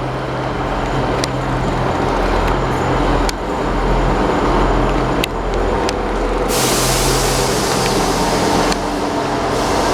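GWR Class 158 diesel multiple unit's underfloor diesel engines running with a steady low drone that builds slowly. A loud hiss cuts in about six and a half seconds in and stops about two seconds later.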